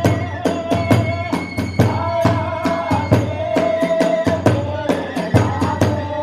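Kagura hayashi: a bamboo transverse flute holding long, slightly wavering notes over fast, steady drum beats and the clash of small hand cymbals, several strikes a second.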